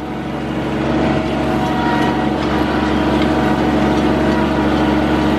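Kubota tractor engine running steadily, growing a little louder about a second in.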